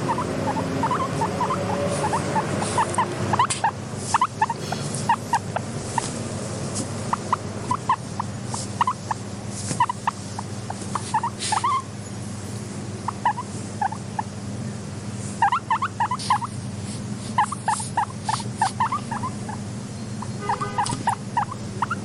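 Guinea pigs making short, quick squeaks in irregular clusters over a steady low hum.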